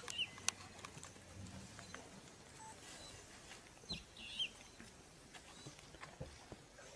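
Faint ambience with a few short bird chirps: one just after the start and two about four seconds in, among scattered faint clicks.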